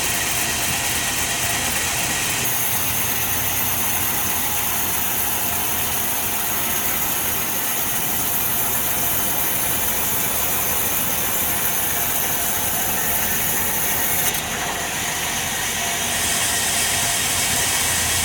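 Sawmill machinery running steadily: a loud, even mechanical noise with a strong hiss, whose tone changes abruptly twice.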